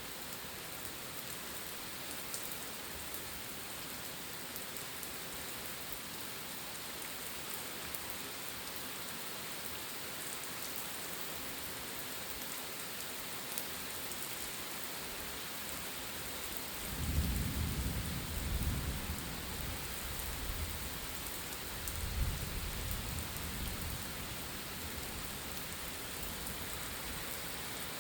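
Steady rain falling, with a low roll of thunder that starts a little past halfway, rumbles for several seconds, swells again and fades.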